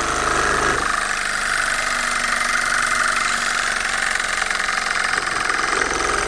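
Small two-cylinder Stirling hot-air engine running steadily, its cranks and pistons making a fast, even mechanical clatter.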